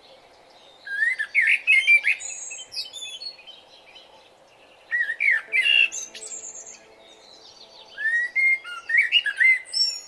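Black drongo calling: three bursts of quick, varied whistled and chirping notes that sweep up and down in pitch, about a second in, around five seconds in, and again near the end, over a faint steady background hiss.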